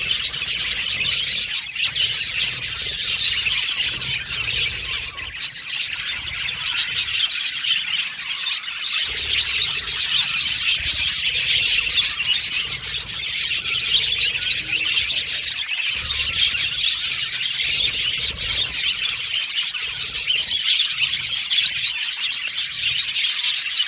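A flock of budgerigars chattering and chirping continuously, many birds at once in a dense, busy stream of high-pitched chirps and warbles.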